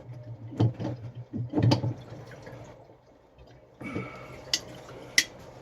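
Water running into an electric water heater tank as it refills. There are a few knocks in the first two seconds, then a steady hiss from about four seconds in, with two sharp clicks near the end.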